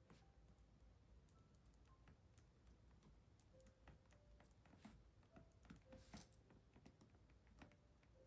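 Faint, irregular typing on a computer keyboard: scattered soft key clicks at an uneven pace.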